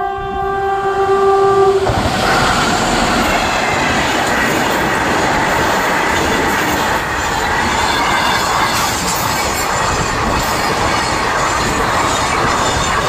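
WAG-9 electric freight locomotive's horn sounding one steady blast that cuts off about two seconds in, as the locomotive passes close by. After it comes the loud, steady rumble and clatter of a train of oil tank wagons rolling past at speed.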